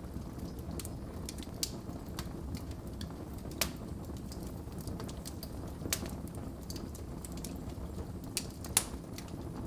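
Wood fire burning in a fireplace: a steady low rumble of flames with sharp, irregular crackles and pops, the loudest about a third, two thirds and nine tenths of the way through.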